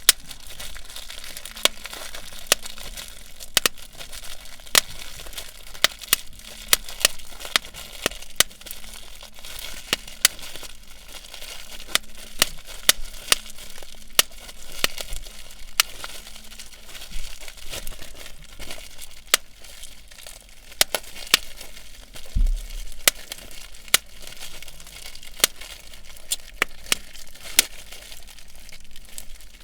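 Rapid, irregular sharp pops, several a second, over a steady rustling hiss, with one low thump about three-quarters of the way through.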